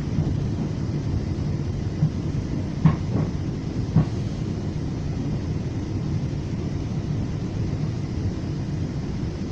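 Steady low rumble of a FrontRunner commuter train heard from inside a passenger coach running at speed, with a few short sharp knocks about three and four seconds in.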